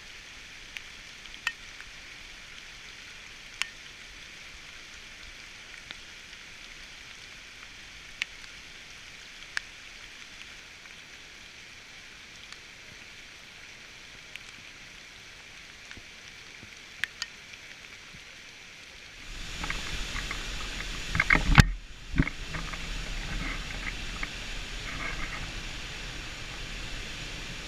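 Steady high-pitched outdoor hiss with scattered sharp ticks. About two-thirds of the way in it turns louder with a low rumble, a loud knock and short high chirps.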